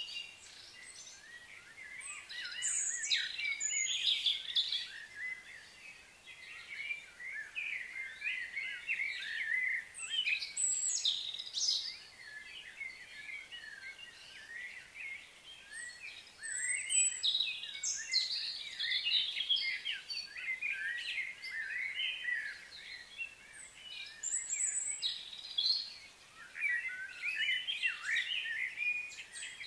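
Birds chirping and calling in bouts of a few seconds, many quick overlapping chirps at a time, over a faint steady outdoor background.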